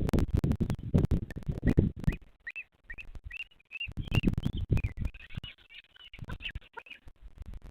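Scratching, knocking and low thumping close to a nest camera's microphone. From about two seconds in, a run of short, thin chirping bird calls.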